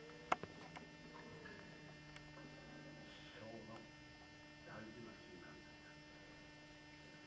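Quiet, steady electrical hum with one sharp click about a third of a second in and a few faint, indistinct sounds.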